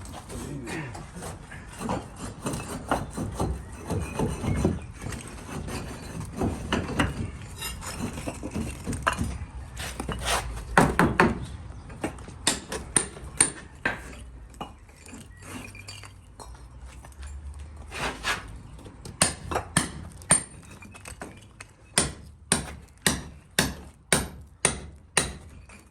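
Hammer blows: scattered knocks and clatter at first, then a steady run of strikes, about two a second, over the last few seconds.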